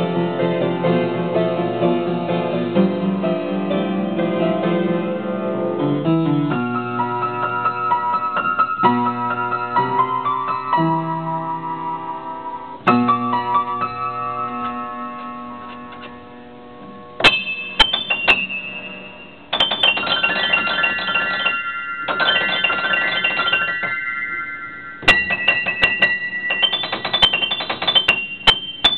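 Solo piano playing, improvised: sustained chords in the middle and low range for the first half, dying away, then quick repeated high notes in the upper register from a little past halfway, like falling raindrops.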